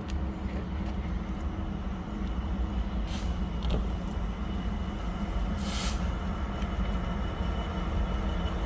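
Train running steadily with a low rumble, with two short hisses about three and six seconds in.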